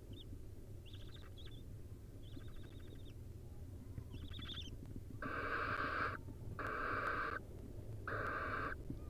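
Barn owl nestlings calling: a few short, rapid chittering calls, then three loud, harsh hissing begging calls, each under a second long.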